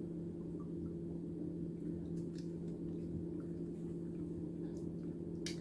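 Steady low background hum with a few faint, short ticks.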